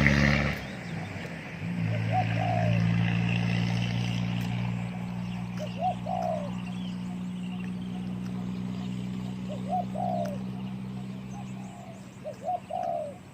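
Spotted dove cooing: a short coo phrase four times, roughly every four seconds. A steady low mechanical hum runs underneath.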